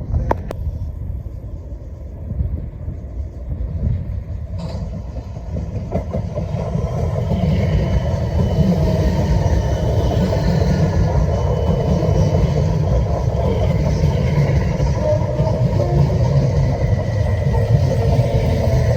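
A passenger train running through the station: a low rumble with faint higher tones that builds from about six seconds in and holds loud from about eight seconds on. Two short sharp clicks come near the start and a little under five seconds in.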